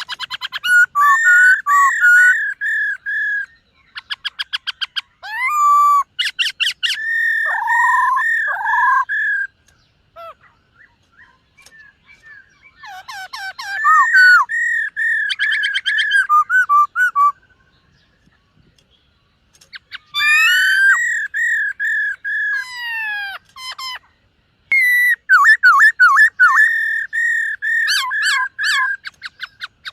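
Black-throated laughingthrush singing: loud phrases of clear, slurred whistles mixed with fast trills, broken by a few short pauses between phrases.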